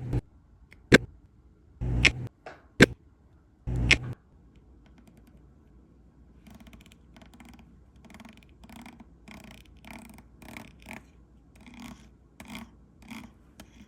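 Round diamond-painting drills popping into place: several sharp, loud clicks in the first few seconds, some with a dull thump under them, then a run of softer, even pops about two a second.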